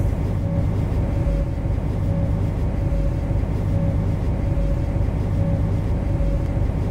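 MTR Kwun Tong line C-Train heard from its driver's cab: a steady low electric hum with a higher tone that comes and goes about once a second.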